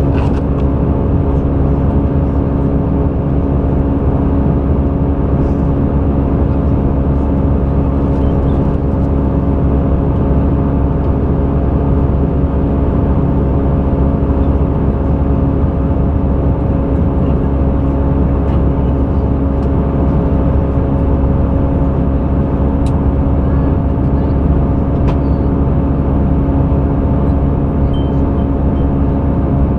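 Airbus A320 cabin noise in flight: a steady drone of engines and rushing air, with several steady humming tones.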